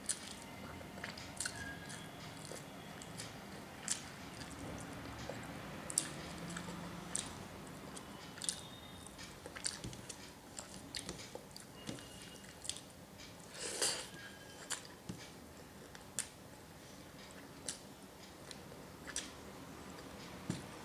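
A person chewing and smacking her lips while eating rice and fish curry with her fingers, with scattered short wet clicks and one longer louder smack about fourteen seconds in.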